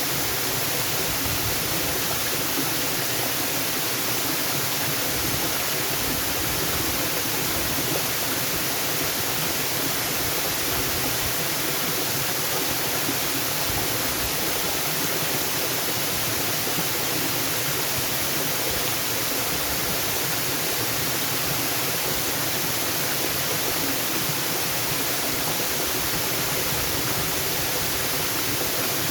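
Waterfall rushing in a steady, even hiss of falling water with no breaks.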